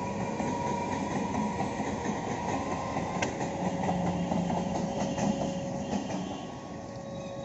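Electric suburban local train (EMU) running past close by, its wheels clattering steadily over the rail joints. The noise eases off near the end as the last coaches pull away.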